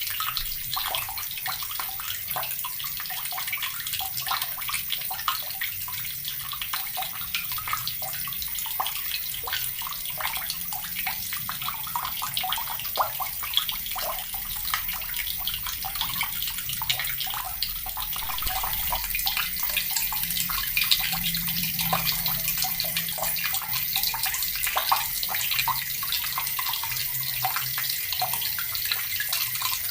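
Water running steadily from a tap and splashing, a continuous hiss full of small, quick splashes.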